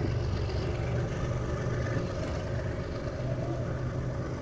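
Passenger train running along the track, heard from on board: a steady low rumble.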